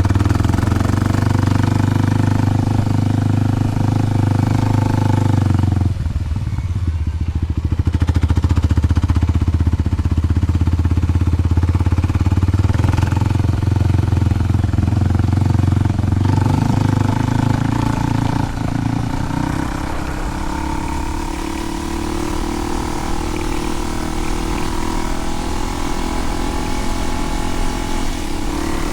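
Kawasaki KLX300's single-cylinder four-stroke engine running through a Delkevic 10-inch oval slip-on exhaust. The engine note shifts abruptly about six seconds in and changes again after about sixteen seconds, running a little quieter near the end.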